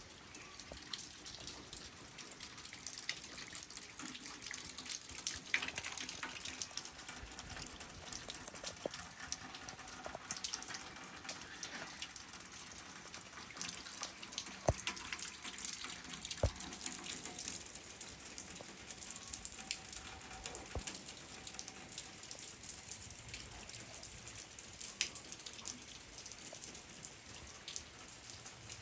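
Steady rain falling, a continuous hiss with many separate drops heard as quick ticks and taps.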